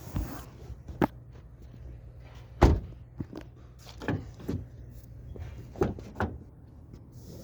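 A car door being handled and shut: a few sharp clicks and knocks, with one heavy thump about two and a half seconds in.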